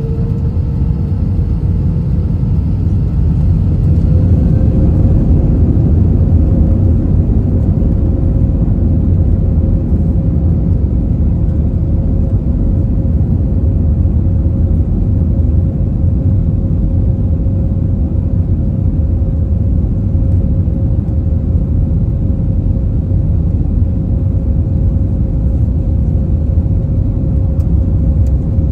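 Steady engine and airflow rumble inside the cabin of an Airbus A321-231 with IAE V2500 engines. Over the first four or five seconds an engine whine rises slightly in pitch and the sound grows louder, then both hold steady.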